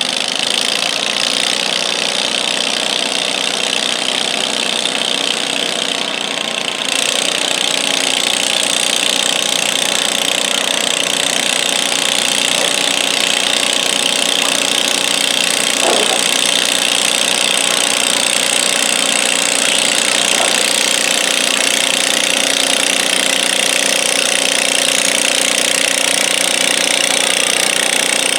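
Garden pulling tractor's engine running steadily under load as it drags the stoneboat. It gets louder in a step about seven seconds in.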